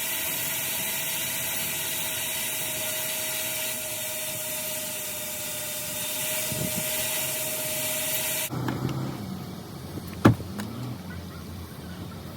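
Coin-operated car-wash vacuum running, a steady rushing hiss of air with a faint motor whine, which shuts off suddenly about eight and a half seconds in. A single sharp knock follows near the end.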